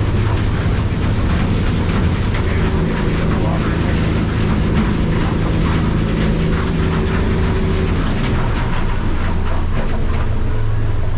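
Outboard motor running steadily at cruising speed, heard on board over the rush of water against the hull.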